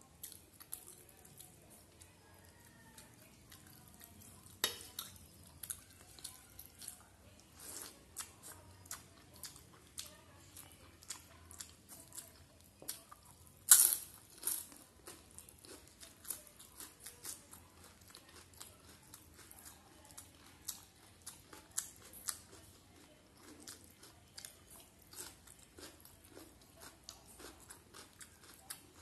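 Chewing and mouth sounds of a person eating rice and fish curry by hand, with many short sharp crunches and clicks spread throughout. The loudest crunch comes about halfway through.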